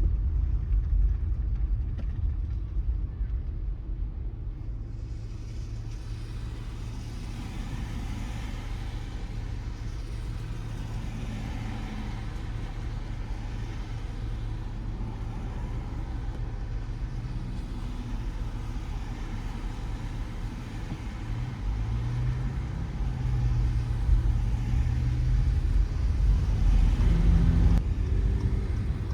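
Car driving on wet city roads: a steady low rumble of engine and tyres, with a hiss of wet tyres and rain that comes in after a few seconds. The rumble grows louder in the last quarter as the car speeds up.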